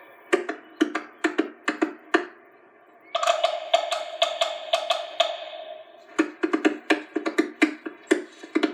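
Quick runs of sharp wooden knocks in a rhythmic pattern, like a woodpecker pecking out a beat on wood. In the middle a held musical tone plays, with the knocking continuing over it.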